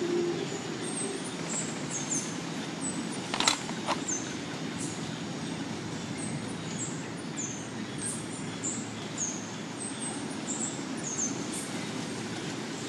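Rainforest ambience: a steady low rushing background with many short, high chirps, each falling in pitch and repeated irregularly. Two sharp clicks stand out about a third of the way in.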